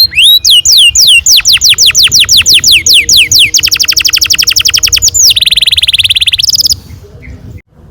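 Domestic canary singing a long rolling song. It gives a fast run of repeated down-sweeping whistled notes, about seven a second, then a quicker trill and a buzzy roll, and stops suddenly near the end.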